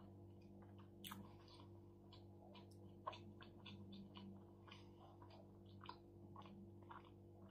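Faint close-up chewing of a mouthful of shawarma with the mouth closed: soft, wet, irregular clicks and smacks, over a steady low hum.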